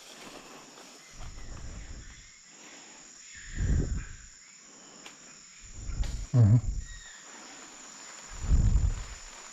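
Steady high-pitched chorus of rainforest insects, with four or five dull low thumps spaced a couple of seconds apart.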